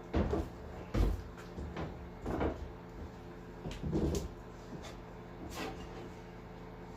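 Irregular clunks and knocks of a drift boat's seat brackets being handled and set in place, about seven in the first six seconds, the loudest about a second in.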